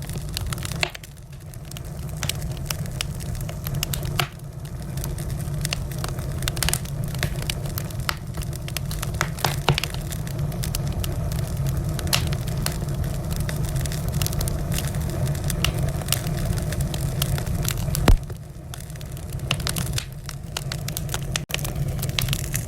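Wood fire burning in a fireplace, crackling with many irregular small pops over a steady low rumble. One louder pop comes about three-quarters of the way through.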